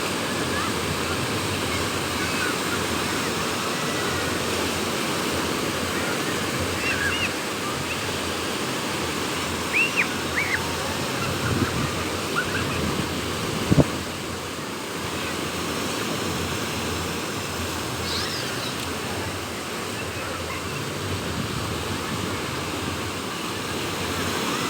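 Sea waves breaking and washing on a beach, with wind blowing, a steady rushing surf. A few short high chirps and a couple of soft knocks come through in the middle.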